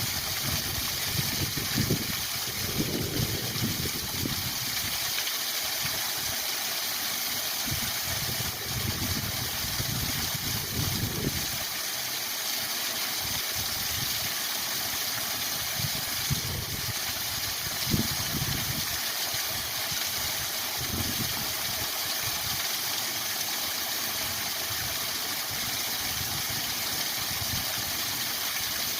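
Waterfall rushing steadily, a constant even hiss of falling water, with irregular low rumbles swelling and fading every few seconds underneath.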